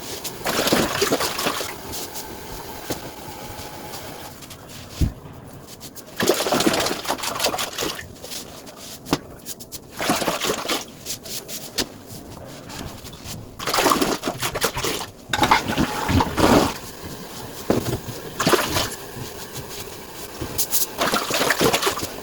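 Water gushing in a string of short bursts, each a second or two long, in the manner of a toilet flushing.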